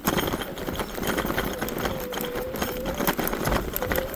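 Electric hub motor of a Jasion EB5 Plus e-bike whining steadily under power, with frequent clicks and knocks from the bike rattling over rough ground.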